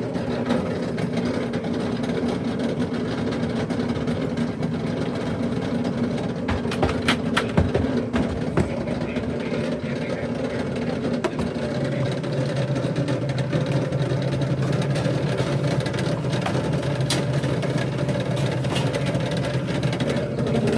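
Lennox gas furnace's draft inducer fan motor running with a loud, steady mechanical hum: its motor bearings are going out. A few sharp clicks come about seven to eight seconds in.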